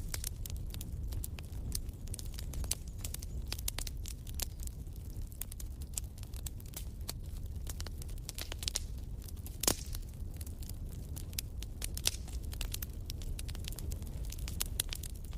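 Wood fire crackling in a fireplace: many irregular small snaps and pops over a steady low rumble of the flames, with a couple of louder pops in the second half.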